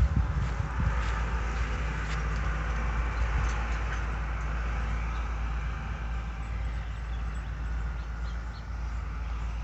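Farm tractor engine running steadily as the tractor drives past on the road, a low even drone.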